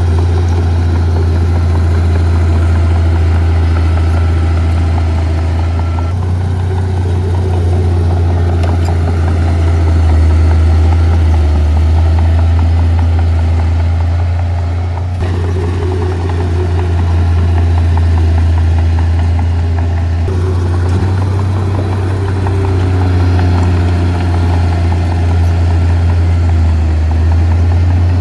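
Heavy diesel earthmoving machinery (a bulldozer or dump truck) running steadily with a deep engine hum, its pitch and loudness shifting a few times.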